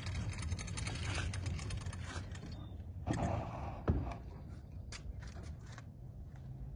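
Kayak landing-gear wheels rolling across pavement with a dense, rapid rattling and clicking for the first couple of seconds. Then comes a scraping swell and a single knock about four seconds in, followed by a few light clicks.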